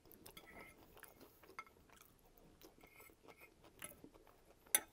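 Faint, close-miked chewing of Coney-sauce fries, with many small wet mouth clicks. A sharp click near the end, the loudest sound, comes as the metal fork picks at the plate.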